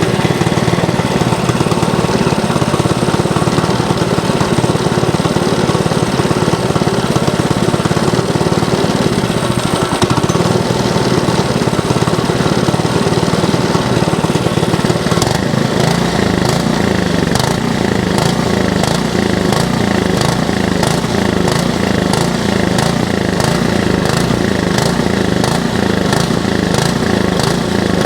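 Go-kart's small gasoline engine running at a raised idle; about halfway through its speed starts to rise and fall in a regular surge, about one beat every two-thirds of a second. The uneven running is something the owner puts down partly to old gas.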